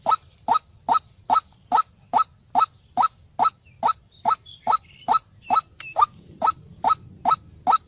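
A bird call repeated at a very steady pace, about two to three short rising chirps a second.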